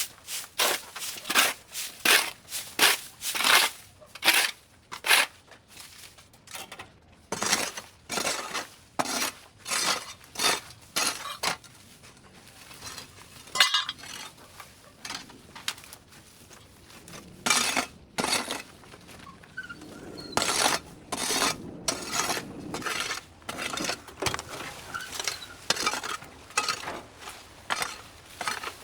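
Repeated scraping or crunching strokes of hand tools working through debris, about two a second at the start. They thin out and nearly stop in the middle, then come back heavily.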